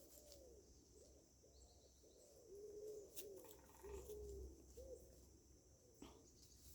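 Faint, soft bird calls: a loose string of short, low, arched notes, about a dozen over five seconds, then stopping.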